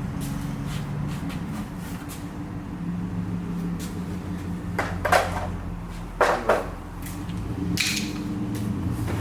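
A few knocks and clunks of hard objects being handled and set down, the loudest pair about five and six seconds in and another near eight seconds, over a steady low hum.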